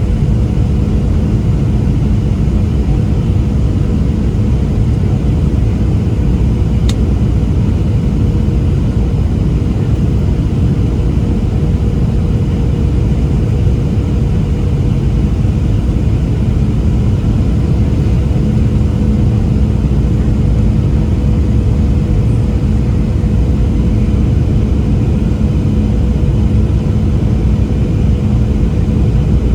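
Boeing 737-700 cabin noise in flight on approach: a steady deep rumble of airflow and CFM56 engines with a constant droning hum over it. A faint tick is heard once about seven seconds in.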